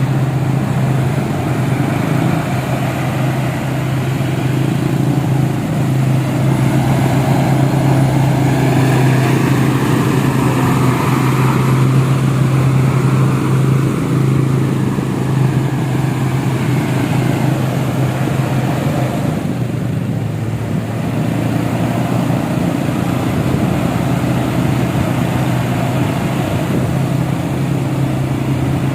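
Concrete mixer truck's engine running steadily with a strong low hum.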